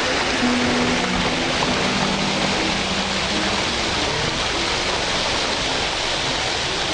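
Steady rushing of water, an even unbroken hiss, with a faint low hum in the first few seconds.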